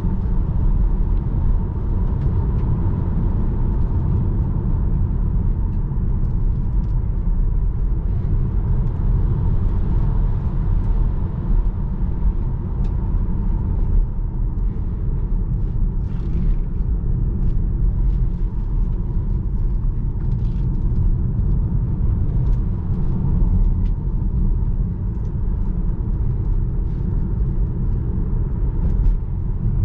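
Tesla Model 3 Performance, a dual-motor electric car, driving on a road with a steady low rumble of tyres and road noise and a faint steady tone over it.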